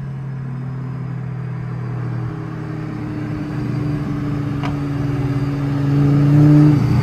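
Car engine droning under acceleration, growing steadily louder, with its pitch stepping up about two seconds in. The note drops briefly near the end.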